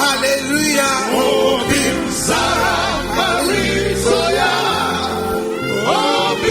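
Gospel praise music: a choir sings over band accompaniment with a steady bass line.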